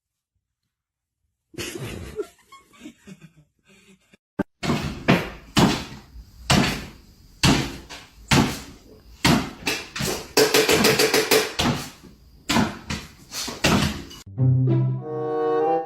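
A run of uneven thumps and knocks after a short stretch of silence, with music coming in near the end.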